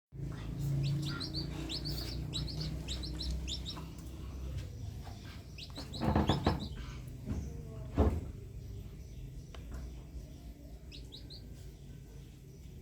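Small birds chirping in quick runs of short high notes over a steady low rumble, with two louder sudden noises, like thumps or handling, about six and eight seconds in.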